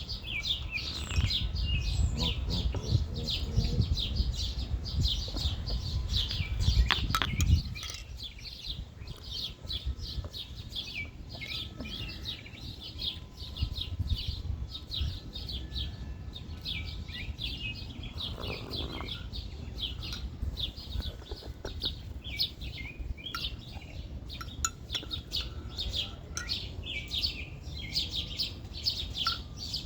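Small birds chirping continuously, many short quick chirps overlapping. A low rumble sits under them for the first seven or so seconds and stops abruptly.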